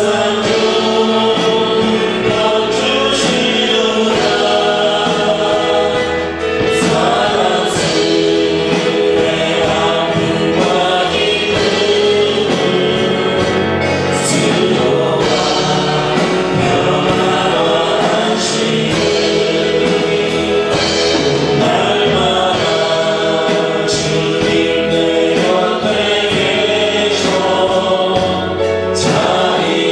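Worship song sung by a group of voices with instrumental accompaniment and a steady beat.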